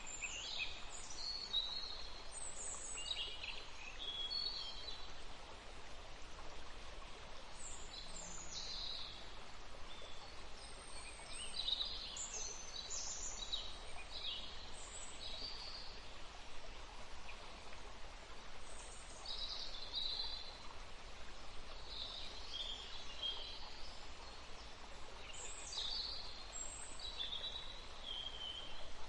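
Several songbirds singing and chirping in short, high warbled phrases, scattered throughout, over a steady background hiss.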